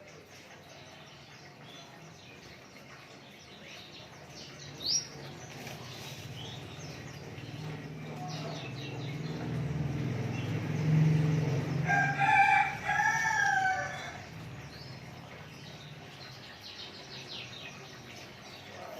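A rooster crowing once, a long wavering call about 12 seconds in, over a low rumble that builds from about 8 seconds and fades with the crow. Short high bird chirps come about 5 seconds in and again near the end.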